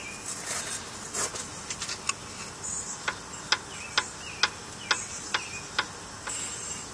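Sharp metallic clicks, about two a second, as a loose part in the bottom end of a Chevy 305 V8 is wiggled by hand. The owner takes this play for the cause of his engine knock.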